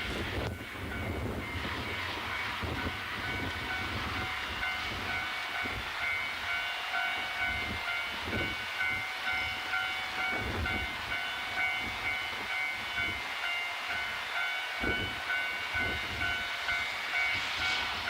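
Japanese National Railways diesel train running, with a steady whine and a regular low thumping about twice a second in the latter part. Strong wind buffets the microphone.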